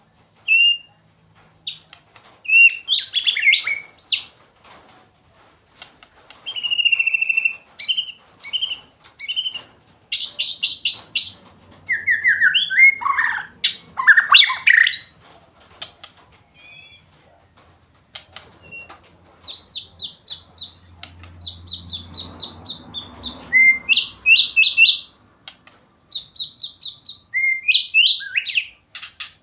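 A songbird, the one known in Thai as nok bin-la dong, singing a varied song of whistled notes and fast trills in separate phrases with short pauses between them.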